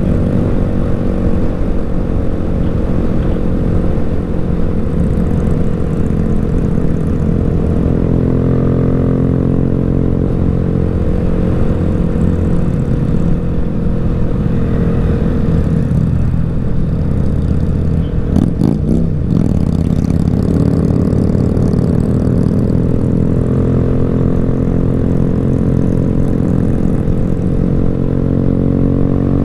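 Motorcycle engine running steadily while under way, its pitch shifting slightly with the throttle. A short burst of clattering clicks comes about two-thirds of the way through.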